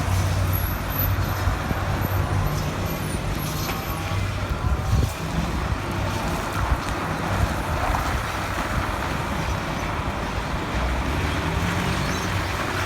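Heavy truck's diesel engine running steadily with a low hum.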